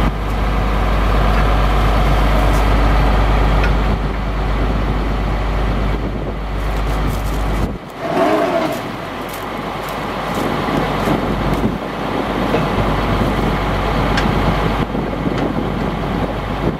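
Chevrolet C7500 truck engine running steadily. Its low rumble dips briefly about eight seconds in, with a short squeal.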